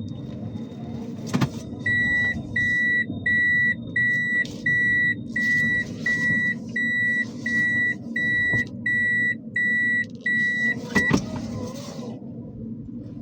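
An electronic beeper sounding thirteen even, single-pitched high beeps, about one and a half a second, starting about two seconds in and stopping near eleven seconds, over the low steady running of a car. A sharp click comes just before the beeps begin and another just as they stop.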